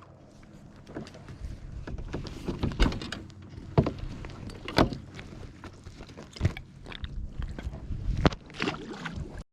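Irregular knocks, taps and thumps on a kayak as a just-caught fish and tackle are handled aboard, with a few louder thumps in the middle and near the end.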